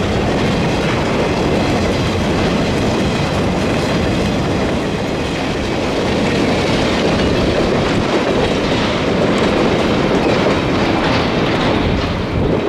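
A sugarcane train's cars rolling past with a steady clickety-clack of wheels over the rail joints.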